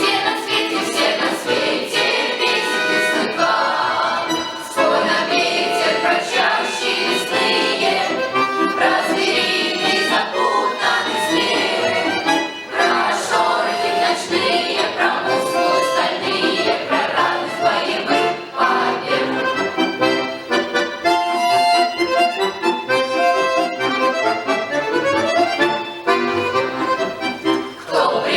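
Accordion playing an instrumental passage of a song, with a lively, fast-moving melody over chords.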